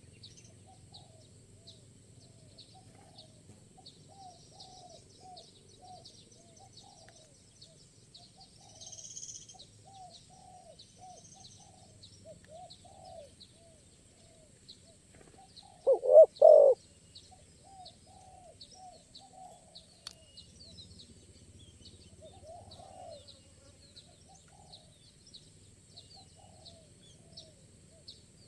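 Spotted doves cooing, with faint repeated calls throughout; about sixteen seconds in, one dove calls loudly and close, three quick notes. A steady series of faint high chirps runs underneath.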